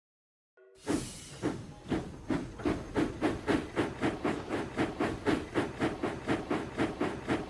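Steam locomotive chuffing, starting about a second in with slow puffs of steam that quicken a little and settle into a steady rhythm of about three chuffs a second, like an engine setting off.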